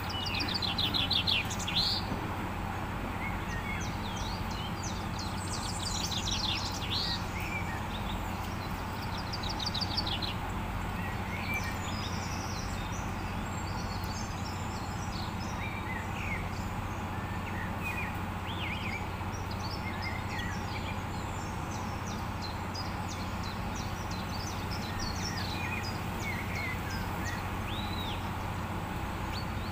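Small birds chirping and trilling in quick high bursts, busiest in the first ten seconds and more scattered after, over a steady low hum.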